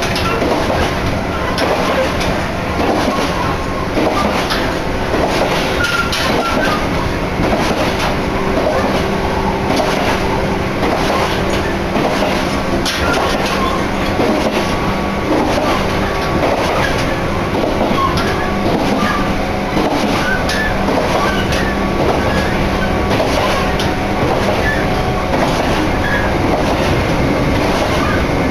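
Abukuma Express train running along the line, heard from inside the car with a window open: a loud, steady rumble and rush with faint clicks from the wheels over the rail joints and a steady low hum.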